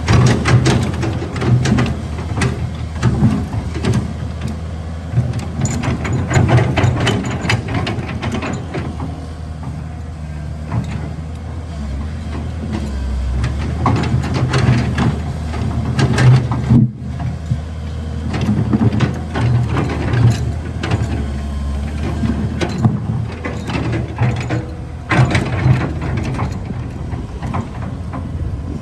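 Caterpillar 320 excavator's diesel engine running steadily, with frequent metallic clanks, knocks and scrapes from the bucket working rock.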